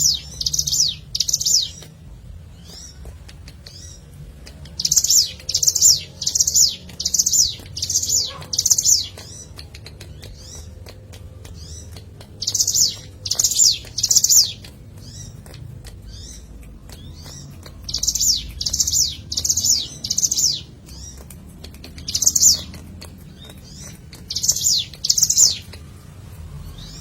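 Ciblek gunung, a prinia, singing loud, sharp high notes in rapid bursts of two to six, each burst repeated after a pause of a few seconds.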